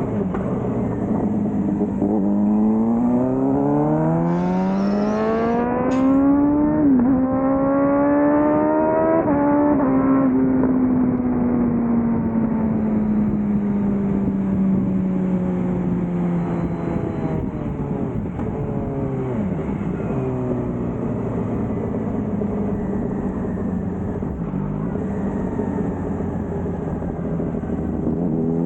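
Suzuki GSX-R600 inline-four motorcycle accelerating at speed: the engine note climbs for several seconds, dips briefly at a gear change about seven seconds in and climbs again, then falls slowly as the rider eases off, and rises again near the end.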